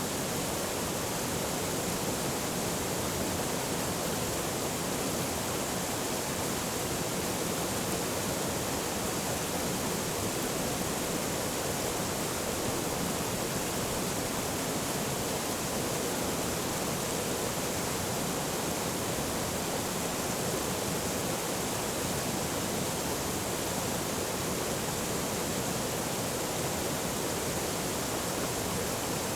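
Forest stream rushing over rocks: a steady, even wash of flowing water.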